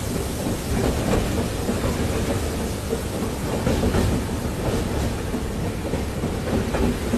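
Train running on the rails: a steady rumble with the clatter of wheels over the track joints.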